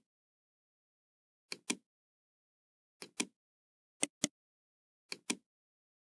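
Computer mouse clicking: four pairs of sharp clicks, the two in each pair a fifth of a second or less apart, spaced about a second or so from one pair to the next.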